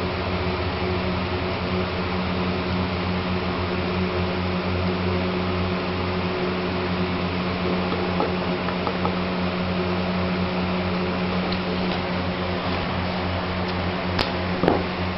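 A steady mechanical hum, like a small electric motor or fan running, with a few light clicks and taps near the end.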